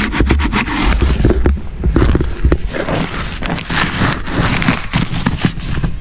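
Ice crunching and cracking in a rapid run of sharp crackles and knocks, over a heavy uneven low rumble of wind buffeting the microphone.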